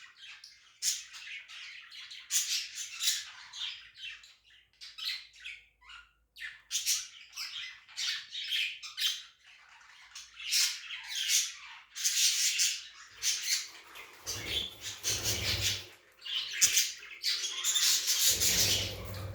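Budgerigars chattering and warbling in quick squawky chirps, almost without a break. Twice in the second half a low rumble lasting a second or two joins in.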